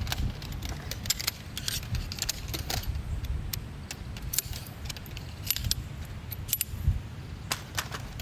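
Small metal objects clinking and jangling as they are handled: an irregular run of sharp clicks, over a steady low rumble.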